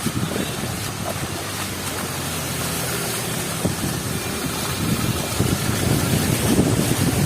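Heavy rain with wind buffeting the microphone, over a low rumble of street traffic.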